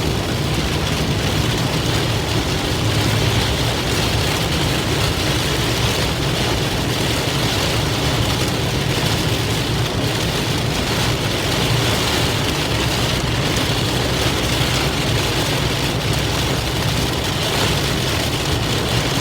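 Heavy downpour during a thunderstorm, a steady rush of rain with no break or let-up.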